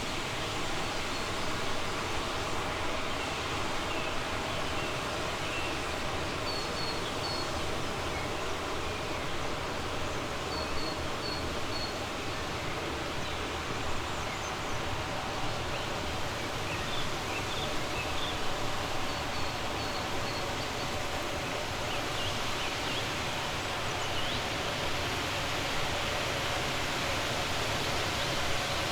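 Steady rush of a flowing river, with short high bird chirps in small clusters of two or three coming and going over it.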